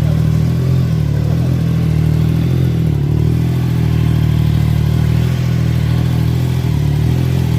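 Motorcycle engine running at a steady speed, a constant low drone with no rise or fall in pitch.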